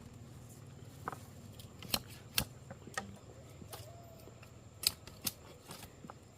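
Irregular light clicks and taps of small hard objects being handled, about a dozen scattered through, the sharpest about two and a half seconds in and just before five seconds, over a low steady hum.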